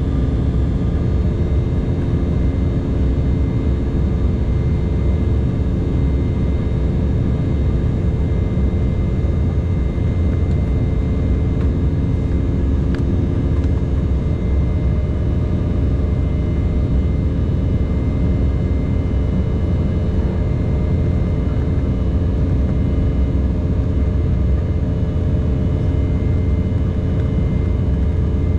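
Cabin noise of an Embraer 190 in flight, its GE CF34-10E turbofan engines running steadily in the climb: a deep, even rumble with a few steady hums over it.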